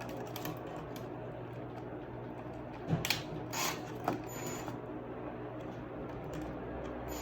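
A hose clamp on flexible ducting being tightened by hand with a tool: small mechanical ratcheting and turning sounds, with a few sharper clicks about three and four seconds in, over a steady hum.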